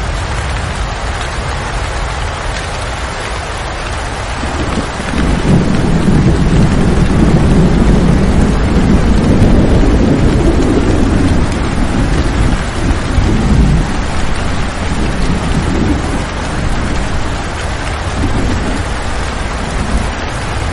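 Steady rain falling, with a long roll of thunder that swells about five seconds in, rumbles for several seconds and dies away in smaller swells.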